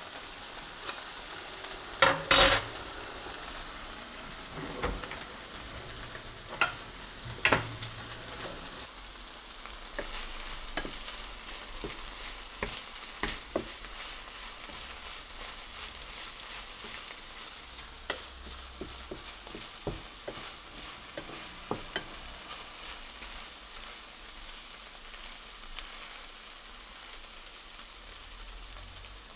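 Fajita filling sizzling steadily in a frying pan while a utensil stirs it, with sharp knocks of the utensil against the pan. The loudest are a cluster of knocks about two seconds in and another about seven seconds in, and the knocks thin out later on.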